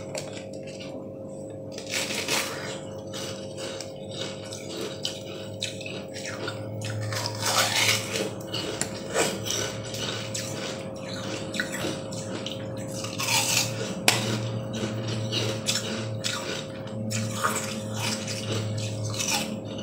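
Close-up eating sounds: repeated bites and chewing of a translucent green jelly-like treat shaped like a bitter melon. A few louder bites stand out, about 2, 8, 13, 17 and 19 seconds in, over a steady low hum.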